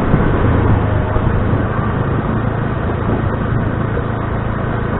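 Motor scooter engine running steadily while riding, with road and wind noise.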